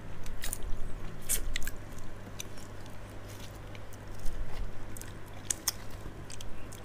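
Close-up chewing of giant water bugs (maeng da), with sharp, irregular crackles of their hard shells and wings. A low steady hum runs underneath.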